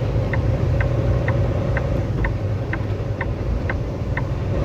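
Semi-truck cab at low speed: the engine's steady low rumble, with the dash flasher ticking evenly about twice a second.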